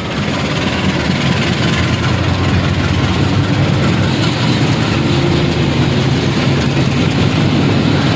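Diesel locomotive engine running loud and steady, a heavy low rumble that swells up at the start and holds.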